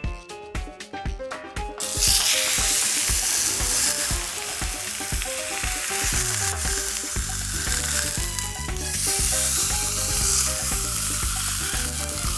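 Background music with a steady beat. About two seconds in, a loud, steady sizzling of food frying in a pan joins it.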